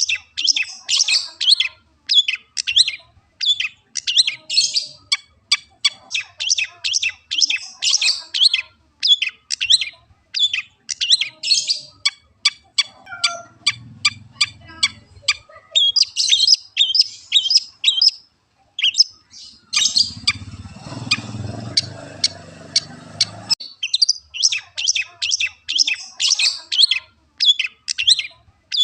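Long-tailed shrike (cendet) singing: a fast, near-continuous run of short, high chattering notes. About two-thirds of the way through, a few seconds of rushing noise sound along with it.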